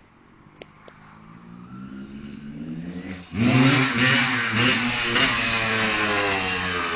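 Dirt bike engine rising in pitch and level as it revs up, then suddenly much louder about three and a half seconds in and held at high revs.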